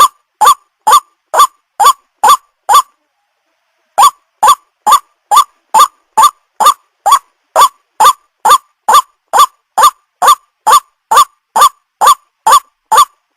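White-breasted waterhen calling, the same short rising note repeated about twice a second. The calls break off for about a second roughly three seconds in, then resume at the same pace.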